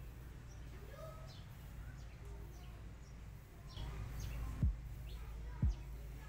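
Small birds chirping now and then over a steady low outdoor rumble, with two deep thumps about a second apart near the end.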